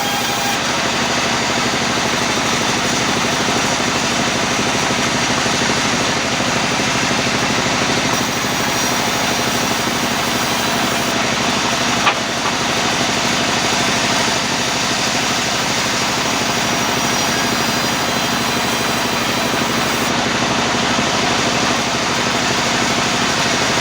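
Sawmill machinery running steadily, a constant mechanical hum and noise, with one sharp knock about halfway through.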